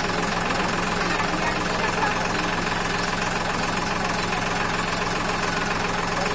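Tractor diesel engine idling steadily, with an even knocking clatter and no change in speed.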